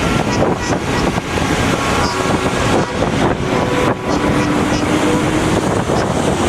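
Heavy trucks of a convoy driving past, a dense rumble of engines and road noise with wind buffeting the microphone, and short held tones that come and go.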